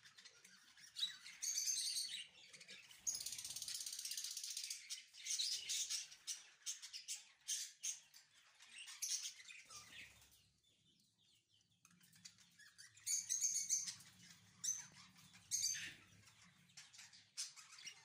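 Caged birds chirping faintly in short high-pitched bursts, with a stretch of steadier chatter about three seconds in and a quiet gap a little past halfway before the chirping picks up again.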